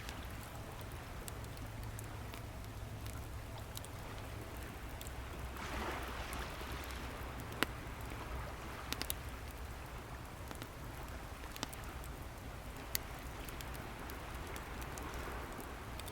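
Wood fire crackling with scattered sharp pops over the wash of sea waves; a wave swells up about six seconds in and another near the end.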